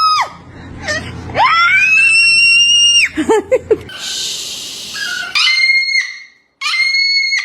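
Cockatoo screeching: a short call at the start and a long held screech lasting about a second and a half. After that comes a harsh, hissing screech, then three short, sharp screeches close together.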